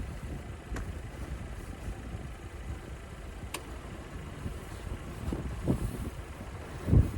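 Car engine idling, a steady low rumble heard from inside the cabin, with two sharp clicks and a few soft thumps, the loudest just before the end.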